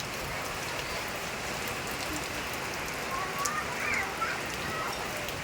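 Steady daytime rain falling, an even hiss of rain on surfaces. A few faint high-pitched sounds come through in the background about three to four seconds in.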